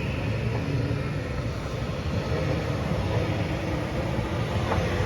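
Class 397 electric multiple unit running past at the platform: a steady low rumble with a faint whine over it.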